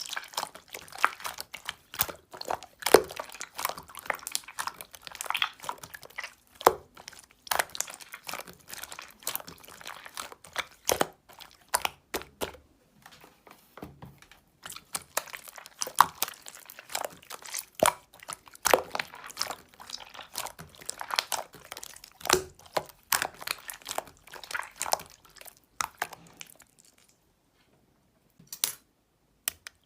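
Slime being squeezed, poked and stretched by hand, giving a dense run of sticky clicks and small pops that stops shortly before the end, with a couple of last clicks.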